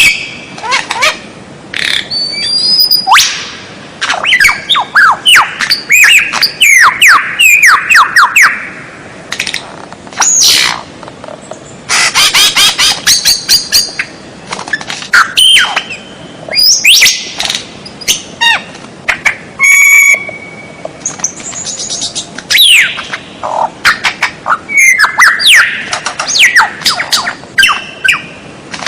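White-rumped shama (murai batu) singing energetically in quick, varied phrases: sweeping whistles, rapid chattering notes and harsh squawks, with one longer, clear whistle about two-thirds of the way through.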